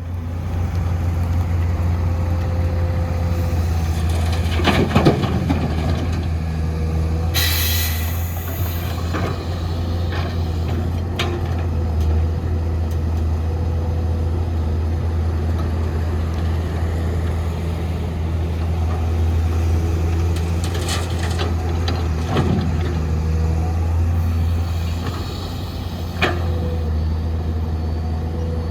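Heavy diesel construction machinery, an excavator and dump trucks, running with a steady low drone. A few sharp clanks come through over it, and a short loud hiss of released air comes about eight seconds in.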